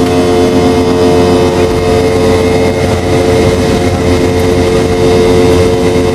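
Boeing 717-200's rear-mounted BR715 turbofan engines running steadily, heard inside the passenger cabin: a constant whine over a low rumble and rushing noise, with no change in pitch.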